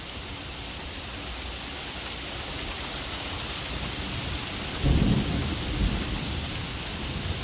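Heavy rain falling steadily, growing slowly louder, with a loud clap of thunder rumbling about five seconds in and a shorter rumble a second later.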